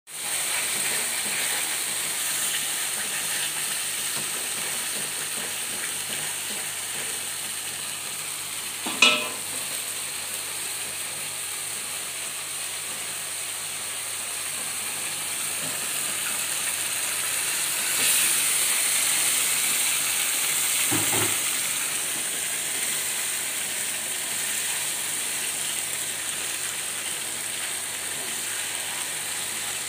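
Blended chili and shallot spice paste sizzling steadily as it fries in a nonstick wok, slightly louder about halfway through. There is a sharp knock about nine seconds in and a duller knock about twenty-one seconds in.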